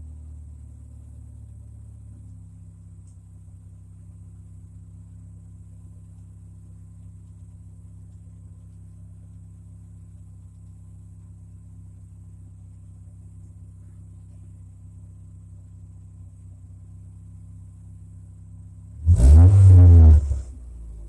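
Exhaust of a 2008 Chevy Malibu LS with the muffler cut off, idling steadily, then revved once hard near the end, the pitch climbing and falling back.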